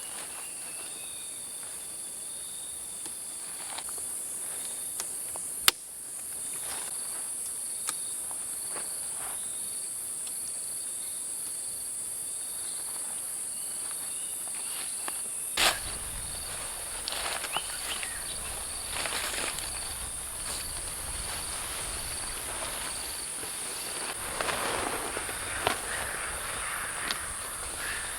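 Forest insects, crickets among them, trilling in a steady high-pitched chorus, with a sharp click about six seconds in. From about sixteen seconds in, close rustling and knocks join over a low rumble.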